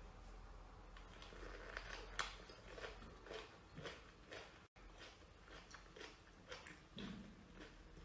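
Faint biting and chewing on a raw lemon, with small irregular mouth clicks. The sound cuts out for an instant a little past halfway.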